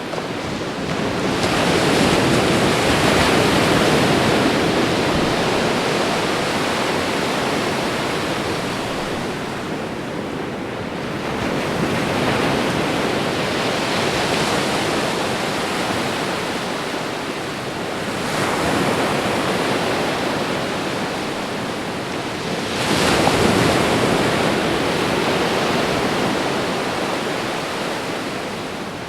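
Ocean surf: waves breaking and washing in, a rushing noise that swells and falls away four times at uneven intervals.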